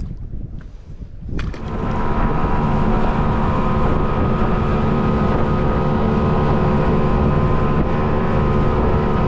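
Boat motor starting up about a second and a half in, then running steadily at a constant pitch.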